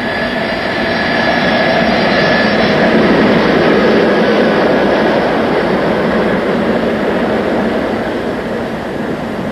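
Jet engines of the prototype Boeing 747, Pratt & Whitney JT9D turbofans, running at high power during a high-speed taxi run. The jet noise carries a thin whine, builds over the first few seconds and slowly eases off.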